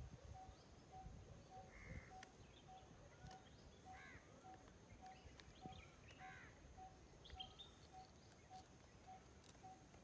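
Faint outdoor birdsong: scattered short chirping calls, with one short note repeating steadily about twice a second and a faint steady high whine.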